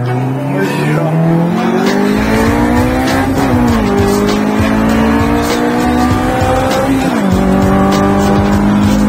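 B-series four-cylinder car engine accelerating hard through the gears. Its note climbs, drops sharply at an upshift about three and a half seconds in, climbs again, and drops at a second upshift about seven seconds in.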